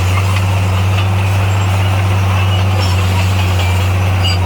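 Engine of heavy earthmoving equipment running steadily: an even low drone that holds the same pitch throughout.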